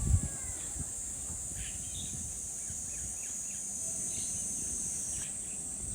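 Steady high-pitched drone of insects, with a few faint, scattered bird chirps.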